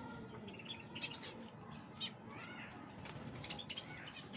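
Several birds chirping and calling in short, high, repeated notes, with a couple of longer arching calls in the middle.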